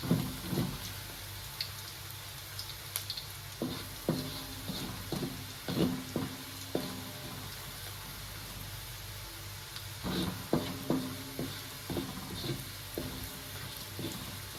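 Onions and spice paste sizzling steadily in hot oil in a pan. A spatula stirs and scrapes against the pan in three spells: right at the start, again about four seconds in, and once more about ten seconds in.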